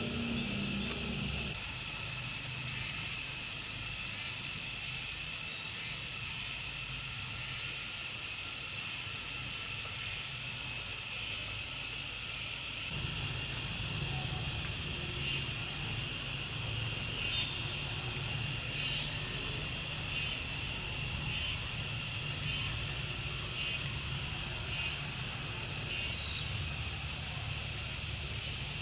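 Steady high-pitched insect drone with faint even pulses about once a second, growing louder about a second and a half in, over a low rumble that gets stronger about halfway through.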